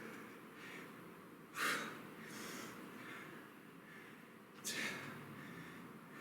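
A man breathing out hard through the nose and mouth, two short, forceful exhales about three seconds apart, with the effort of kettlebell deadlift reps.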